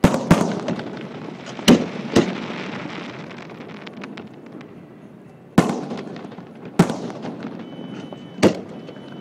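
Aerial firework shells bursting: about seven sharp booms at uneven intervals, each followed by a long rolling echo that fades away, with a few fainter pops between them.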